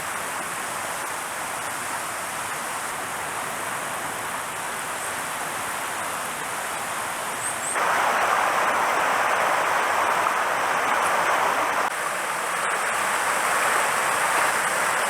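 Mountain stream water rushing, a steady hiss that jumps abruptly louder about halfway through.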